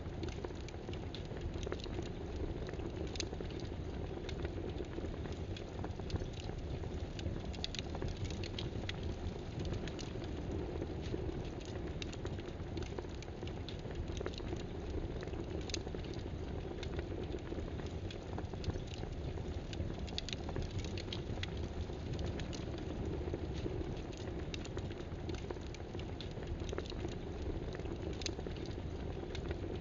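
Computer keyboard typing: irregular bursts of key clicks over a steady, low rushing background noise.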